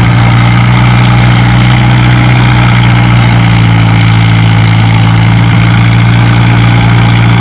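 Farm tractor engine running steadily at a constant speed, loud and unchanging, with no revving.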